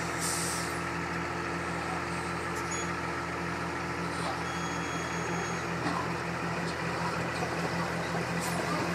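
Scania truck's diesel engine running steadily with an even hum, no revving, during tipping of a loaded container.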